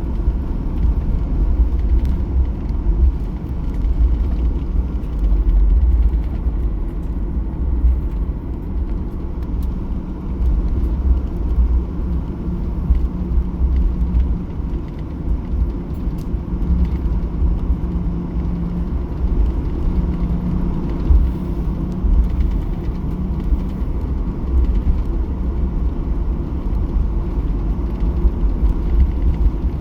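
Cabin noise inside a Boeing 737-800 during its departure: the steady low rumble of the CFM56-7B jet engines and airflow, with a faint low hum coming and going in the middle.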